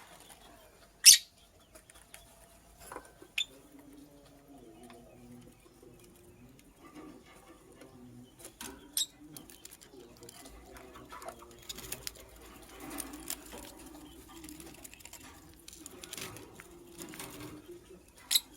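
Lovebird giving a few short, sharp chirps, the loudest about a second in and another near the end, over a low, wavering background sound.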